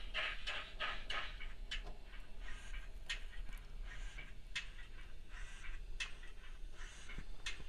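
Digital sound decoder in an OO gauge model of a GWR 57xx pannier tank, playing steam exhaust chuffs through the model's small speaker: quick chuffs at first, then single chuffs spaced out about a second and a half apart.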